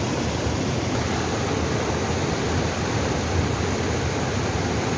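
Mountain valley stream rushing, a steady, unbroken noise.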